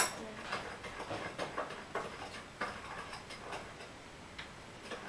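Scattered light clicks and taps of cooking at the stove, a few a second at irregular intervals, with a sharper click at the very start.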